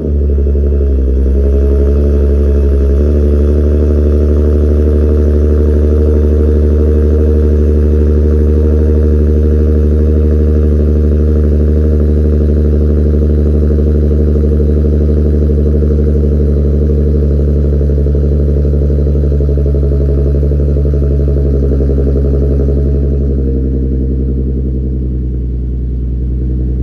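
Infiniti QX70 exhaust, with an Ark Grip cat-back and high-flow catalytic converters, idling steadily at a raised cold-start idle with a deep drone. About 23 seconds in, the idle eases down a little lower and quieter.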